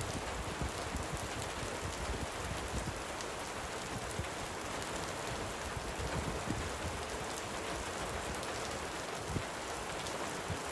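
Light rain falling steadily: an even hiss of drops with scattered fine patter.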